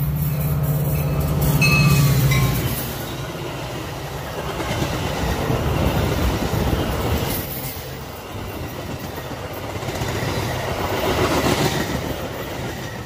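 Metra EMD F40PH diesel locomotive passing close with its engine drone, loudest about two seconds in. Then a string of bilevel commuter cars rushes past with steady wheel-on-rail noise that swells and eases, louder again near the end.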